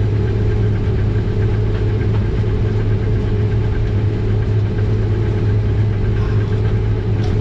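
Combine harvester's diesel engine and harvesting machinery running steadily under heavy load, heard from inside the cab as a continuous low drone.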